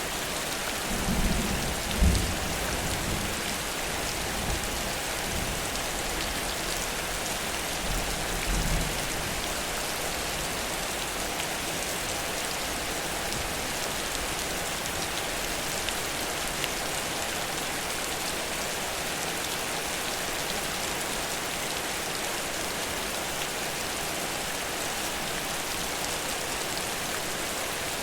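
Heavy rain falling steadily in a dense, even hiss of drops on surfaces. A few short low thumps come in the first couple of seconds and again about eight seconds in, with one sharp knock about two seconds in.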